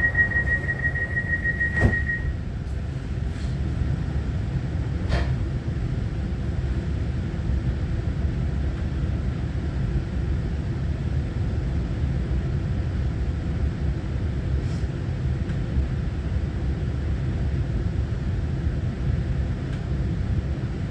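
Cabin rumble of a Taiwan Railway EMU900-series electric multiple unit running along the line, a steady low noise. A high steady tone heard at the start stops about two seconds in with a click, and a few faint clicks follow.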